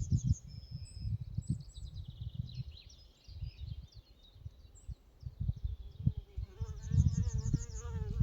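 Forest ambience with small birds chirping and a low, gusty rumble. About six and a half seconds in, a flying insect buzzes close by with a wavering drone.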